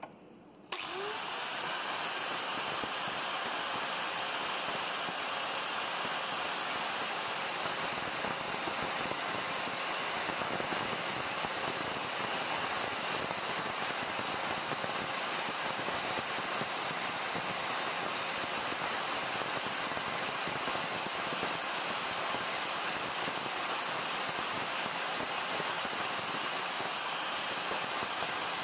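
Angle grinder with a flap disc running steadily, sanding rust off a water pump shaft. It starts about a second in and holds a steady hiss with a faint high whine.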